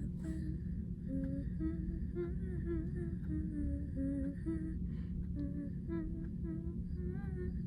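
A young woman humming the melody of her song softly, moving through a series of short held notes as she runs through the tune, over a steady low background rumble.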